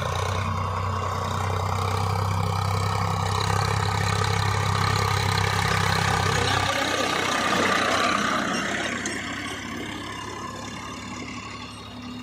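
Tractor diesel engine running with a steady low note. About seven seconds in the low note drops away, and a higher rushing noise swells briefly and then fades.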